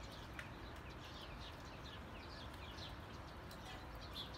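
Faint bird chirping: many quick, short chirps, several a second, each sliding down in pitch, over a quiet hiss.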